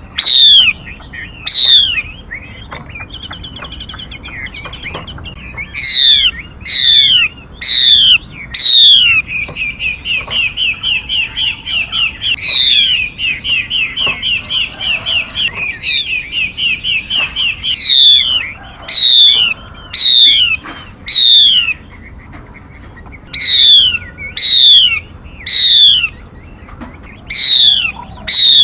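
Recorded calls of a female mi bird played as a trapping lure: loud, sharp notes that sweep steeply down in pitch, given in groups of two to four, with a fast, even chattering trill running for several seconds in the middle.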